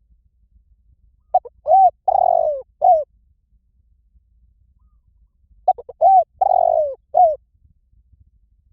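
Spotted dove cooing: two phrases of four notes each, about four seconds apart, the third note in each longer and falling in pitch.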